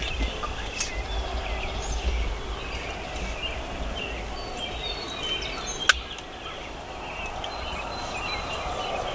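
Wild turkeys gobbling, with songbirds chirping throughout and a single sharp click about six seconds in.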